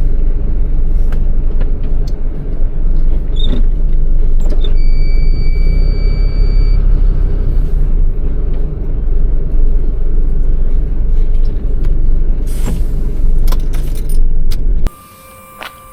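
MAN truck's diesel engine running with a steady low rumble, with scattered clicks and a steady high tone for about two seconds about five seconds in. Near the end the rumble cuts off suddenly to a quiet hum.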